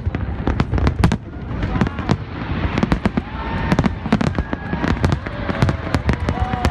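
Fireworks display going off in a rapid, continuous string of bangs and crackles, several reports a second.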